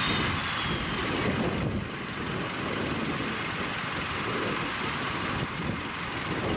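Diesel train running, a steady engine drone and rumble, with a faint high whine, sliding slightly down, over the first second and a half.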